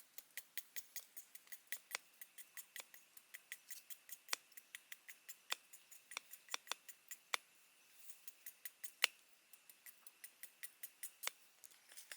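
A quick run of light, sharp clicks, about four or five a second, with a brief pause a little past halfway through.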